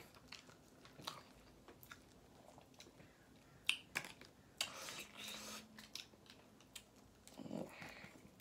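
A person chewing food quietly, with scattered small clicks and a brief rustle about halfway through.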